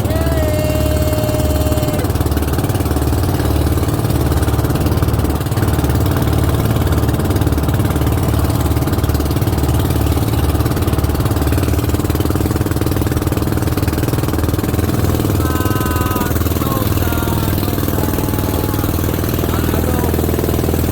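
A boat's engine running steadily, a loud even rumble throughout.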